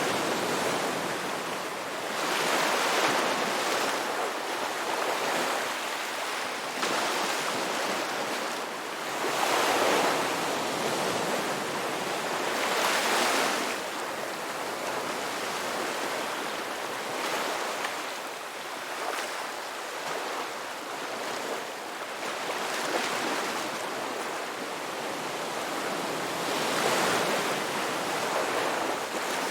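Ocean waves breaking and washing on a shore, a steady rush of surf that swells as each wave breaks, every three to four seconds.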